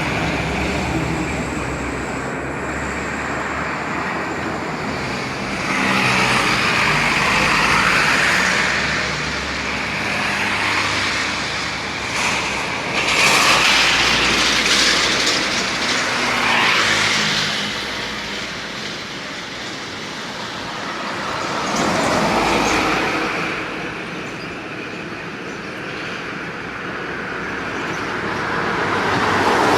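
Road traffic: vehicles passing, with engine and tyre noise swelling and fading several times.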